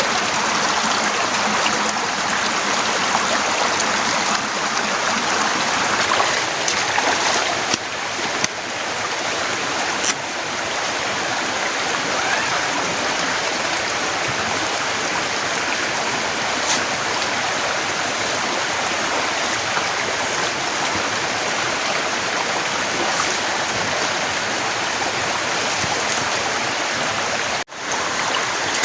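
Heavy rain pouring down, a dense, steady rush of water. It cuts out abruptly for a moment near the end.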